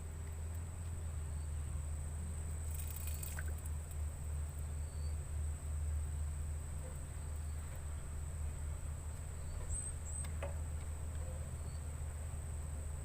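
An insect's steady, high-pitched continuous call over a low steady rumble, with a brief rustle about three seconds in.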